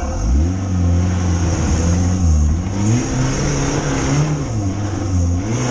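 Off-road competition vehicle's engine revving up and down, its pitch rising and falling several times.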